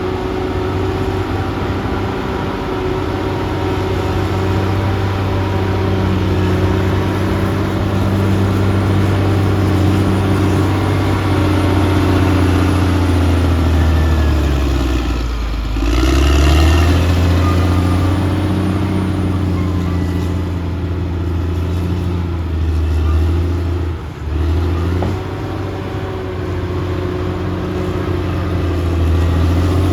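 Caterpillar D6R XL bulldozer's diesel engine working under load. Its pitch sags about halfway through as the engine lugs down, then climbs back, with another brief dip later on.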